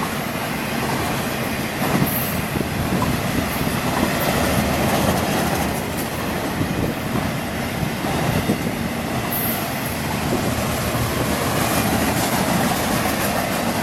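Freight cars of a long intermodal train, trailer-on-flatcar and container cars, rolling past close by: a steady rumble and clatter of steel wheels on the rails.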